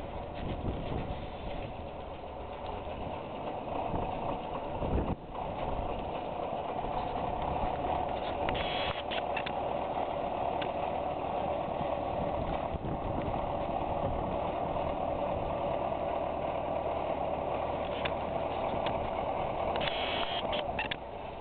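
Tractor engine running steadily at idle, with a single thump about five seconds in.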